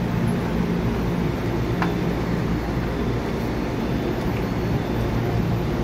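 Steady low hum and rumble of an EMU900 electric commuter train standing at the station platform, with a brief faint click a little under two seconds in.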